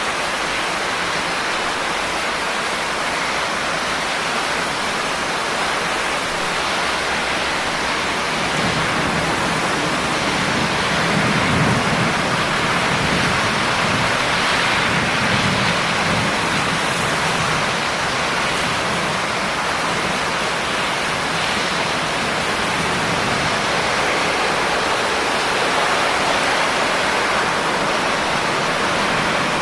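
Steady, heavy rain falling as an even hiss, with a low rumble swelling up beneath it for several seconds in the middle.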